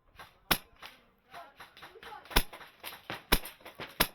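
Airsoft guns firing single shots: about five sharp cracks at uneven intervals, two of them close together near the end, with faint voices between.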